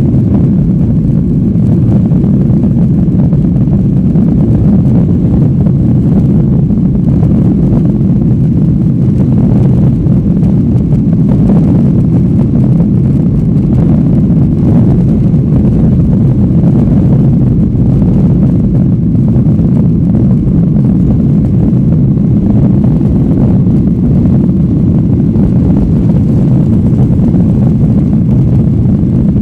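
Steady, loud noise of the Boeing 737-800's CFM56-7B jet engines and rushing air heard from inside the cabin, deep and unchanging throughout.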